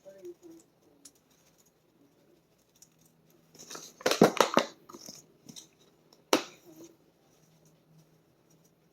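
Dried oregano being shaken from a spice jar: a quick run of rattling shakes about four seconds in, followed by a single sharp click a couple of seconds later.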